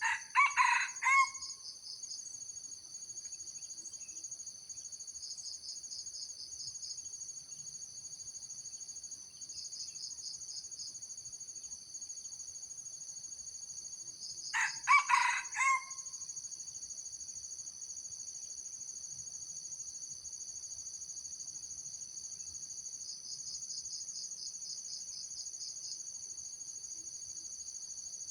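A junglefowl rooster crowing twice, each a short, clipped crow of about a second, some fourteen seconds apart. Steady high-pitched insect trilling runs underneath, with a pulsing chirp in it.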